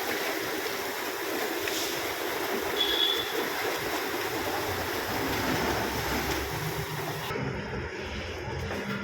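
Steady hiss of a high-pressure water jet spraying a car at a car wash. About seven seconds in the hiss thins out and a low steady hum takes over.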